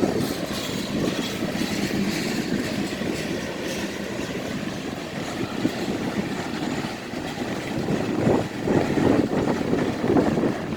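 Freight train of grain hopper cars rolling past, the wheels clattering over the rails, with louder surges near the end.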